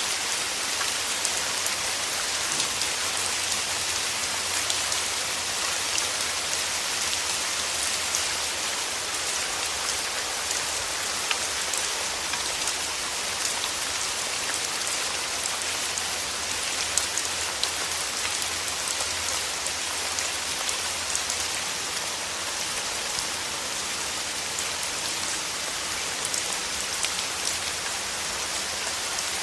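Steady rain falling, an even hiss with many fine droplet ticks throughout.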